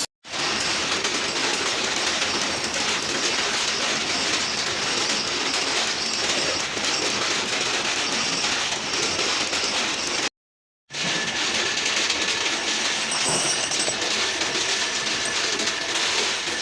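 Loud, steady mechanical clatter and rumble, broken off by a short cut about ten seconds in. After the cut a faint steady high whine runs under it.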